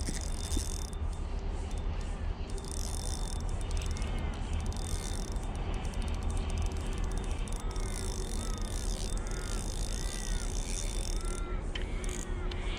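Birds calling in short, repeated arching chirps, with insects buzzing at a high pitch, which comes and goes, over a steady low rumble.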